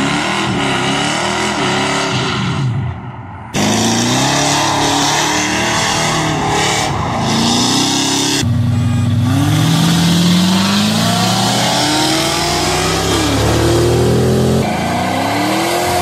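Engines of cars and pickup trucks revving and accelerating hard past the microphone, the pitch climbing and falling with each pull. The sound is a quick series of separate clips, with abrupt cuts about three and a half and eight and a half seconds in.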